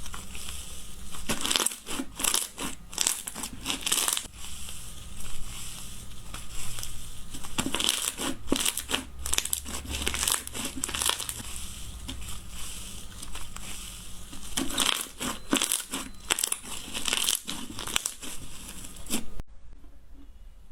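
Slime being squeezed and pressed, giving an irregular run of crackling, crinkling sounds with louder crunchy pops scattered through; it cuts off abruptly about a second before the end.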